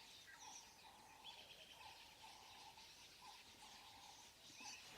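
Near silence with faint bird calls: a low note repeated every second or so, with a few higher chirps.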